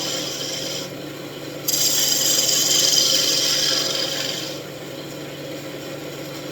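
Turning tool cutting the spinning wand blank on a wood lathe: a hissing shaving sound in two passes, broken briefly about a second in and stopping a little past the middle, over the steady hum of the lathe motor.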